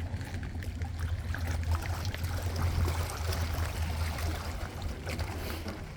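Water lapping and trickling with small splashes, over a steady low hum.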